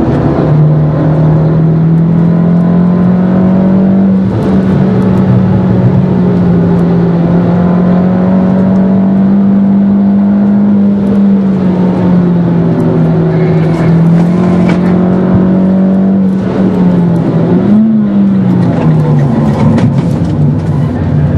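Fiat Grande Punto Abarth's 1.4-litre turbocharged four-cylinder heard from inside the cabin, running hard at high revs on track. The engine note holds steady, steps down at gear changes, and rises and falls quickly about three-quarters of the way through.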